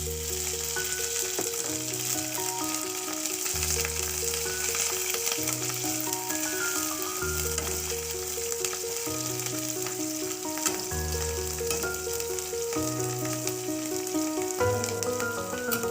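Green chillies frying in hot mustard oil in a kadai, a steady sizzle. Background music plays over it, a repeating melody over a bass note that changes every couple of seconds.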